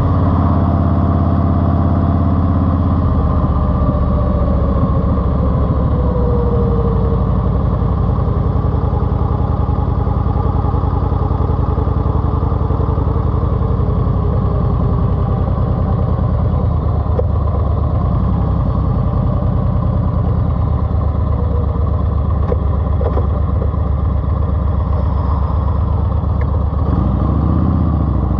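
Engine of the Eluder GT running steadily through its TAB aftermarket exhaust with 2.5-inch baffles, a deep, even exhaust note. The pitch shifts a little near the start and again near the end.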